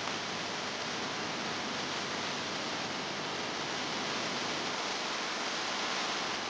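Steady, even hiss with no pitch or rhythm.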